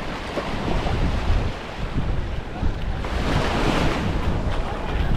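Wind buffeting the microphone over small waves washing on a sandy beach, with a wave swelling and washing in about three seconds in.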